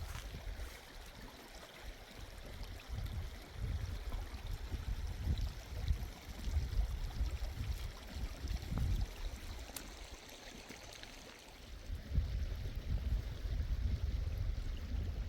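Mountain stream running, with uneven gusts of wind rumbling on the microphone that come and go.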